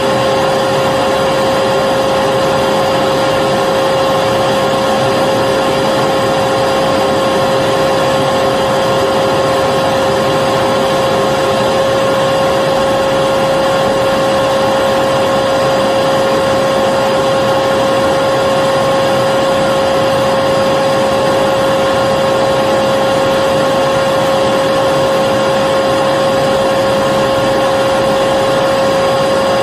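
Vacuum cleaner running steadily, a constant whir with a strong steady hum over even airflow noise, used as white noise to lull a baby to sleep.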